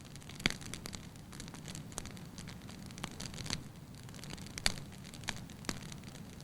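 Wood fire burning in a fireplace: a low steady rumble of flames with irregular sharp crackles and pops, two of them louder, about half a second in and near the five-second mark.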